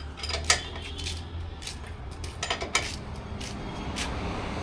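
A string of light, irregular metallic clinks and clicks, like small metal objects or tools being handled and knocked together, over a low steady hum.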